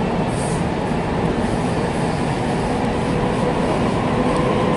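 Tokaido Line New Rapid Service electric train running at speed, heard from inside at the front of the train: a steady rumble of wheels on the rails with a faint steady whine over it.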